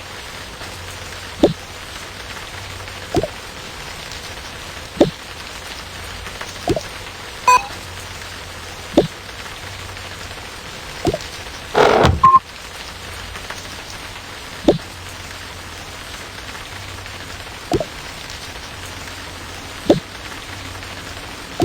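Steady rain, with single heavy drips landing every one to three seconds, each a short plink that drops in pitch. One louder, longer sound about halfway through.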